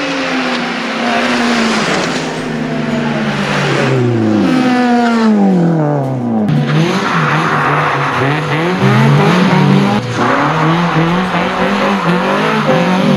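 A Renault Sport car's engine driven hard: the engine note falls steadily in pitch through the first half, then rises and drops quickly again and again through the gears, with tyre noise underneath.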